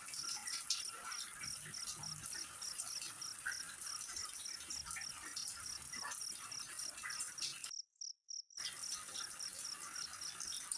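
Cricket chirping in a steady rhythm, about three chirps a second, over an even high hiss. The sound cuts out completely for under a second about eight seconds in.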